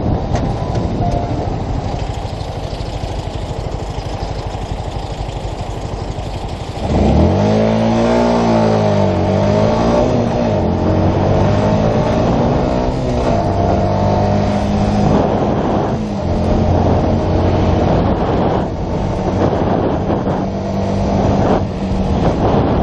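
Yamaha YZF-R125's 125 cc single-cylinder engine. Rumbling wind noise comes first; then, about seven seconds in, the engine note rises sharply and louder, wavers up and down, and settles to a steady pitch.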